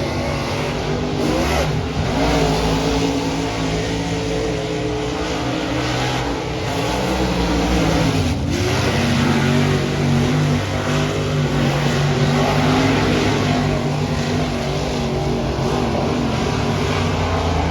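Dirt-track modified race car's engine at full throttle on a qualifying lap. Its pitch drops about two seconds in and again about eight seconds in as it lifts off for the turns, then climbs back up each time.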